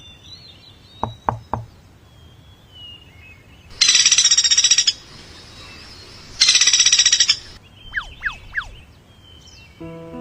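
Woodpecker-style drumming: two loud bursts of very rapid tapping, each about a second long, a couple of seconds apart. Three single knocks come about a second in, and three quick falling chirps come near the end.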